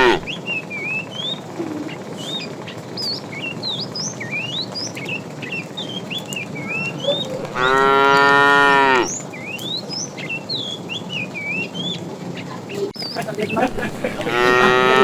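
Cow mooing: one long, drawn-out moo about halfway through, and another beginning near the end.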